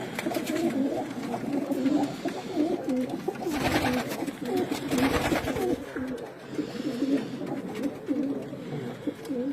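Domestic pigeons cooing continuously, several low, warbling coos overlapping. Two short bursts of noise come about four and five seconds in.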